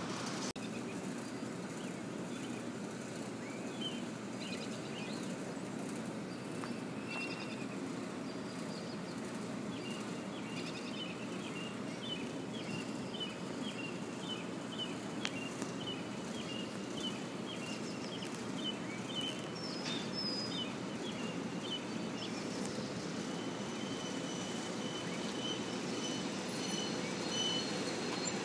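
Steady outdoor background rumble, with a small bird chirping in a quick repeated series through the middle. About three-quarters of the way in, a steady high whine comes in as a SEPTA Silverliner IV electric commuter train approaches.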